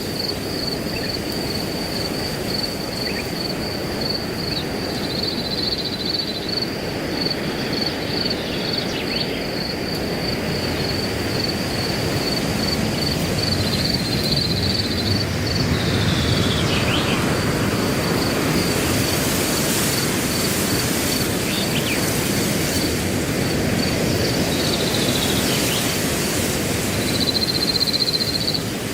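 Wind rushing through grass, swelling a little midway, under a cricket chirping in a steady, evenly pulsed high trill. A few short bird calls come in now and then.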